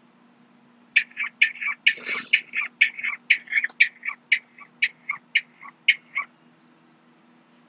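A bird calling a fast run of short notes, about four a second, starting about a second in and stopping about six seconds in, with one noisier burst about two seconds in.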